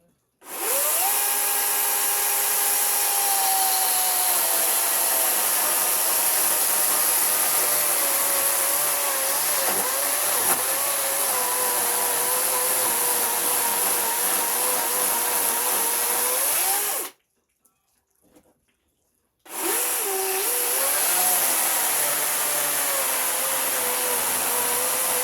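Handheld electric power tool motor running under load in two long runs, with a gap of about two seconds between them. Its whine starts higher and sags lower as the tool bites into the work.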